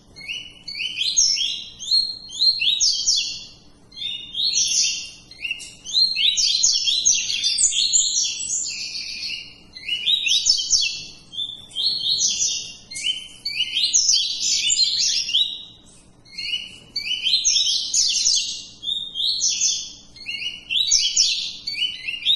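Male double-collared seedeater (coleiro) singing: fast phrases of quick, high notes repeated again and again, each a couple of seconds long with short pauses between.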